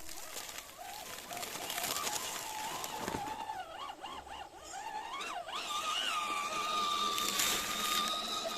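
Electric motor of a 1/10-scale RC crawler whining, its pitch wavering up and down with the throttle and then holding steady from about six seconds in.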